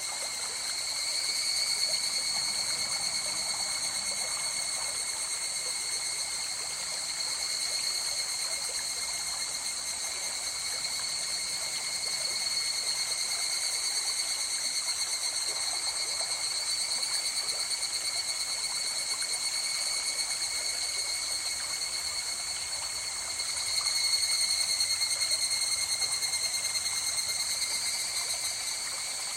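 A river or stream flowing steadily, with a continuous high-pitched trilling from insects over it. The trilling grows louder about 24 seconds in.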